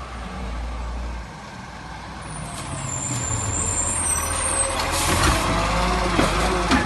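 Garbage truck's diesel engine running and getting louder as it comes in, with a high squeal of its air brakes about halfway through.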